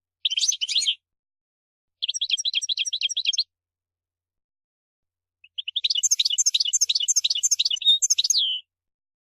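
European goldfinch singing in three bursts of fast, high twittering: a short one, a longer one about two seconds in, and the longest, about three seconds of rapid trills, from midway to near the end.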